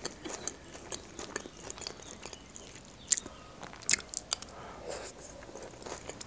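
Close-miked chewing and crunching of a mouthful of Caesar salad, with sharper clicks about three and four seconds in.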